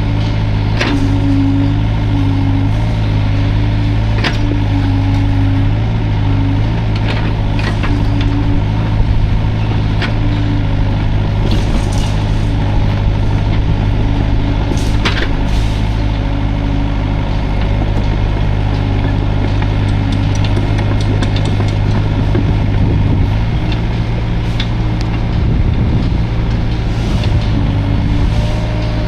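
Hydraulic excavator's diesel engine running steadily while working, with a tone that comes and goes and scattered sharp knocks and clanks.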